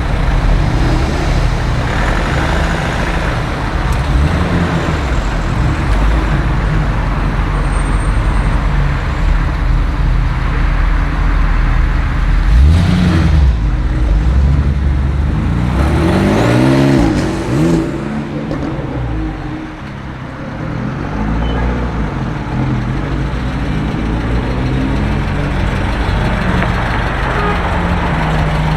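Car engines running and cars driving past, with an engine's revs rising and falling a couple of times around the middle.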